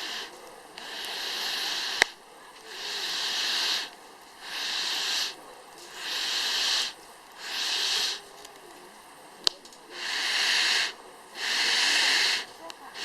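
Wood fire burning in a fire pit, with repeated hissing rushes of air about one every second and a half, and two sharp pops from the burning wood about two seconds in and near the end.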